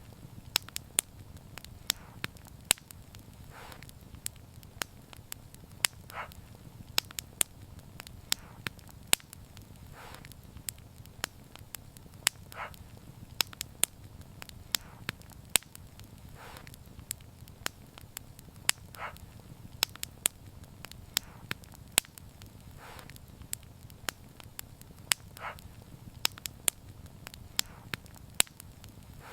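Wood fire crackling, with frequent sharp pops over a steady low rumble of flames. A softer, brief hiss recurs every few seconds.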